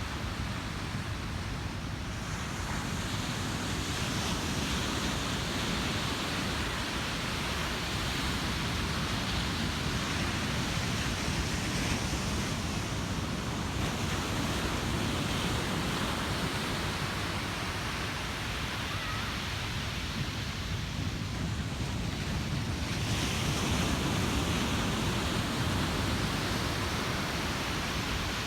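Ocean surf breaking and washing up a beach: a continuous rushing hiss that swells with each incoming wave, about every ten seconds.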